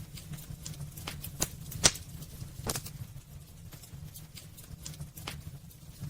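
Burning firewood crackling in a fireplace: irregular sharp pops and snaps over a low steady rumble, the loudest pop a little under two seconds in.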